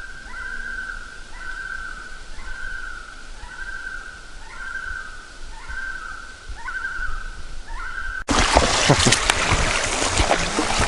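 A bird whistling a repeated song: a steady high whistle broken about once a second by a short rising note, several times over. About eight seconds in it cuts off abruptly to a loud, even rushing noise.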